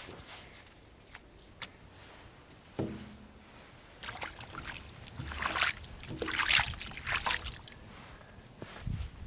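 Water sloshing and splashing in uneven bursts, loudest a little past the middle, after a few light knocks.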